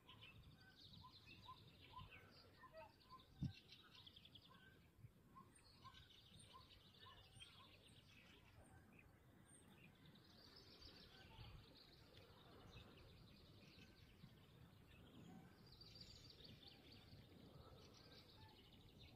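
Faint birdsong: a run of short, evenly spaced notes over the first few seconds and high trills on and off. A single sharp click comes about three and a half seconds in.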